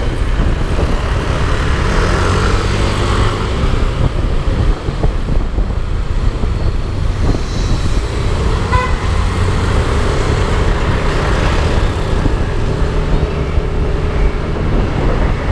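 Yamaha Aerox 155 scooter's single-cylinder engine running while riding, with steady wind rush and traffic noise. A short horn toot sounds about nine seconds in.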